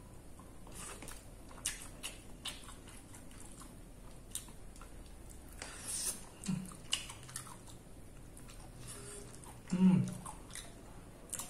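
Close mouth sounds of someone eating spicy chicken feet with rice by hand: chewing, lip smacks and small clicks, with a short low "mm" near the end as the loudest moment.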